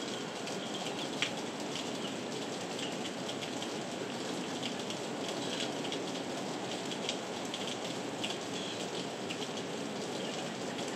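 Heavy rain falling steadily, with individual drops striking close by now and then as sharp clicks; one sharper hit comes about a second in.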